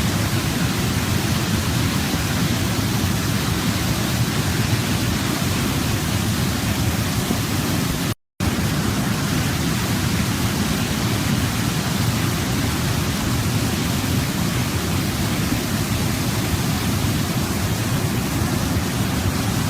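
Waterfall, a steady, even rush of falling water that cuts out to silence for a split second about eight seconds in.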